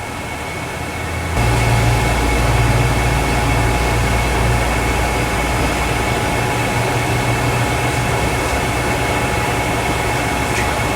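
Steady mechanical hum and hiss of running machinery. A low hum cuts in about a second and a half in and holds steady under a constant high whine.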